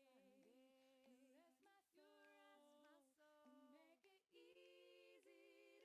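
Very faint background vocal music: a woman's voice singing a slow chant of held notes that step from pitch to pitch.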